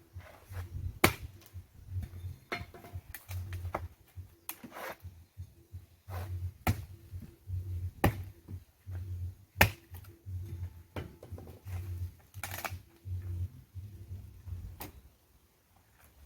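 Irregular sharp knocks and clacks of firewood pieces being handled and laid onto a bonfire pile, with dull low thumps between them.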